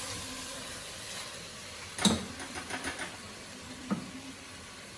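Chicken frying in its released oil in a pot, a steady faint sizzle, with a sharp click about two seconds in, a few lighter clicks after it, and one more near four seconds.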